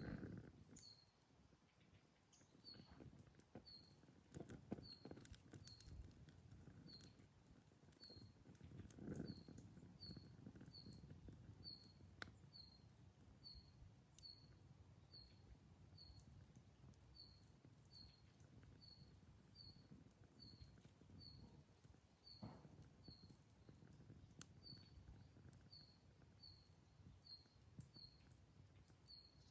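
Faint campfire with a few sharp crackles and pops from the burning wood. Over it, a small animal's high chirp repeats evenly, about three times every two seconds.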